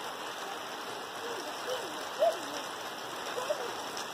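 Steady rain, with rainwater pouring from a roof spout onto the ground. A few short wavering calls or voice sounds come over it in the middle, the loudest about two seconds in.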